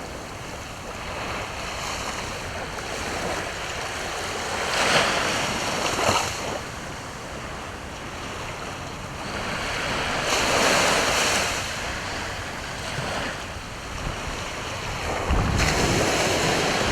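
Sea waves breaking and washing on the shore, rising in several surges, the biggest about ten seconds in and near the end, with wind rumbling on the microphone toward the end.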